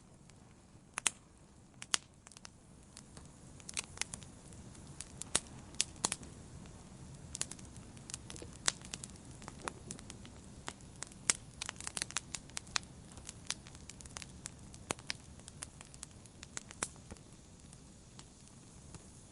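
Campfire crackling: irregular sharp pops and snaps of burning wood over a soft low rustle of flames, busiest in the middle.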